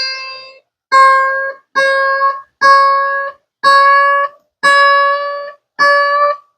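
Washburn mandolin's E-string course plucked over and over, about once a second, while being tuned up. Each note rings briefly and stops, and the pitch creeps a little higher with each pluck as the string is tightened toward E.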